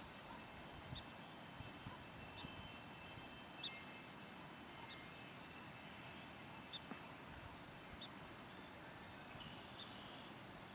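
Faint outdoor background with short, high bird chips every second or two and a single light tap about a third of the way in.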